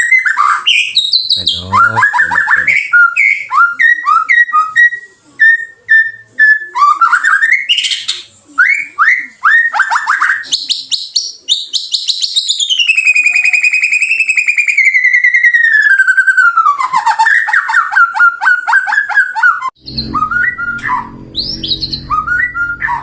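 White-rumped shama singing loudly: a fast, varied run of clear whistles, quick repeated chirps and trills, with one long wavering whistle midway. Near the end a low hum comes in under shorter, harsher notes.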